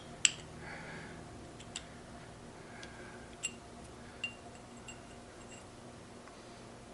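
A few light metallic clicks and ticks as small Ford 2000E gearbox parts are handled, one sharp click near the start and fainter ones spaced about a second apart, over a faint steady low hum.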